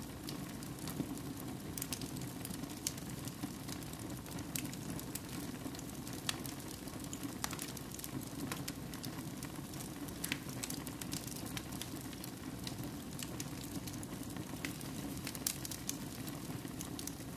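Wood fire burning in a fireplace: a steady low rush of flame with sharp, irregular crackles and pops from the burning wood.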